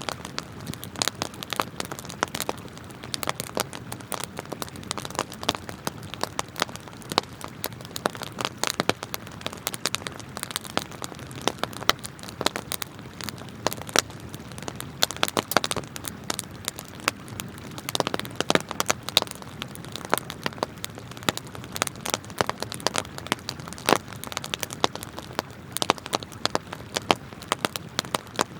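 Wood campfire crackling, with frequent sharp, irregular pops and snaps over a steady hiss of flowing river water.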